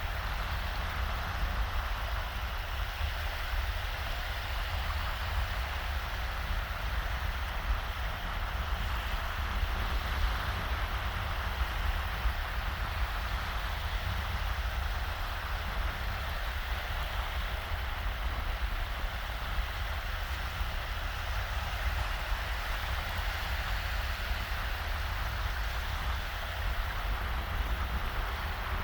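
Small shallow waves washing steadily onto a sandy beach, with a low wind rumble on the microphone underneath.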